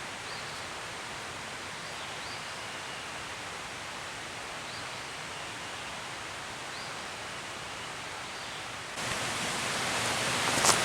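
Steady rushing of a creek, a sound like running water, with faint short high chirps every couple of seconds. About nine seconds in, the rush suddenly gets louder.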